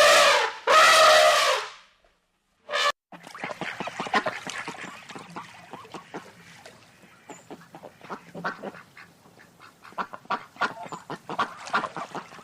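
Domestic waterfowl calling. Two loud, drawn-out calls come in the first two seconds, then after a short gap a flock gives many short, rapid calls over one another.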